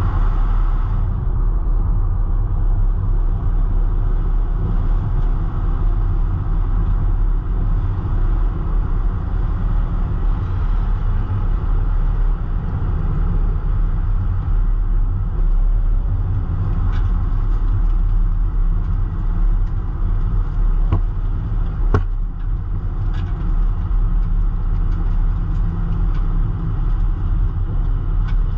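Stock car engines running at the track, a steady low rumble with a few sharp clicks in the second half.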